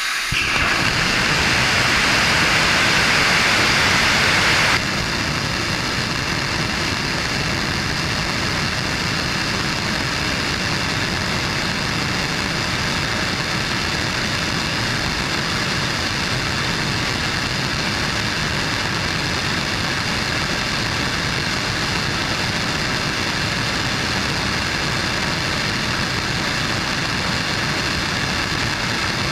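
Blue Origin BE-4 oxygen-rich staged-combustion rocket engine, burning liquefied natural gas, firing: a loud, steady rushing noise. About five seconds in, the hissing upper part drops away abruptly, and the firing carries on steady and a little quieter.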